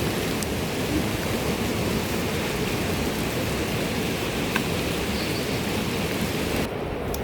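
Steady rain falling, an even hiss with no distinct drops; near the end the sound suddenly turns duller as the higher part of the hiss drops away.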